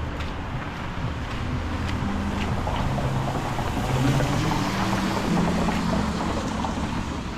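A motor vehicle passing on a wet street: a low engine hum that shifts in pitch and a tyre hiss that swells to its loudest about halfway through, then eases off.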